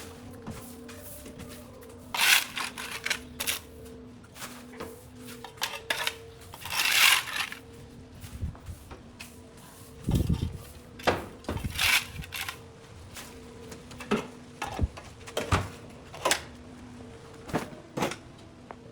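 Irregular clacks and knocks, some in quick clusters, over a faint steady hum that breaks off now and then.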